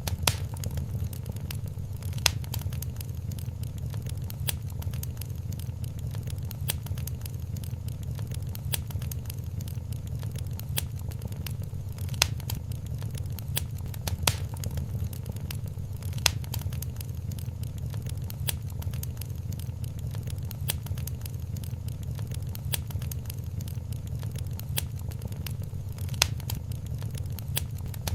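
Wood fire crackling in a fireplace: frequent small crackles and now and then a sharper pop over a steady low rumble.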